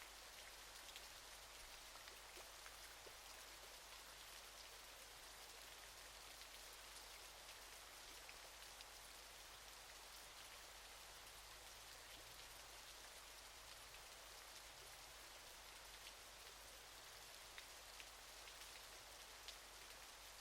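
Faint, steady rush of falling water from a natural waterfall, peppered with many small ticks of splashing droplets.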